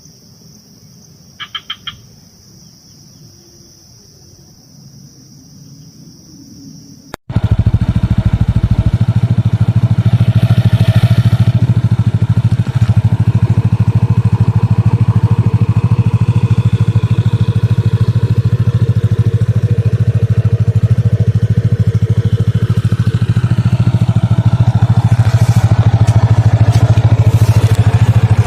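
A quiet stretch with a faint steady high-pitched hum and a brief chirp, then an abrupt cut to a loud, steady, low motor-like drone that carries on to the end.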